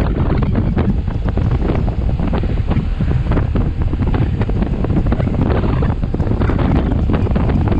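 Loud, steady wind buffeting the microphone of a camera on a moving motorcycle, a rough low rumble that never lets up.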